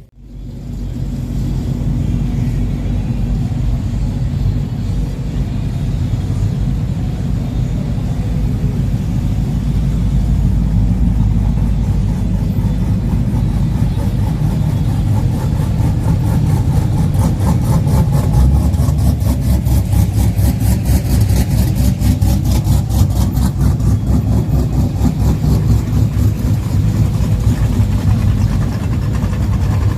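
A pickup truck's engine idling near the microphone, a steady low rumble with an even pulsing beat.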